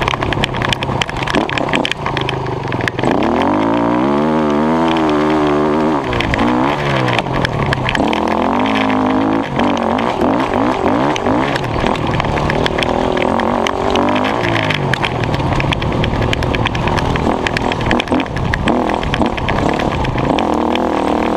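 Dirt bike engine running hard while ridden, its pitch rising and falling again and again as the throttle is worked, with a constant rough noise over it.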